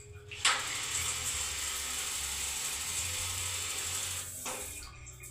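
Niko gas water heater's igniter sparking in a rapid, steady run of clicks for about four seconds, starting suddenly and then stopping, as the heater fails to light.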